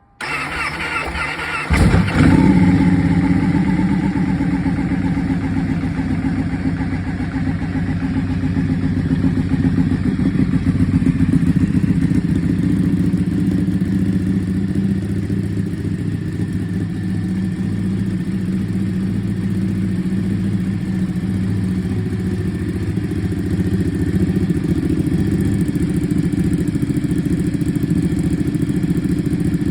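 Ducati 1199 S Panigale's V-twin, fitted with a full titanium exhaust, being cranked on the starter for just under two seconds. It catches with a sudden loud burst and then idles steadily.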